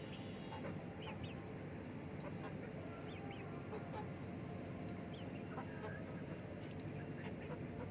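Chickens clucking while feeding, with a few short high chirps scattered through, over a steady low background rumble.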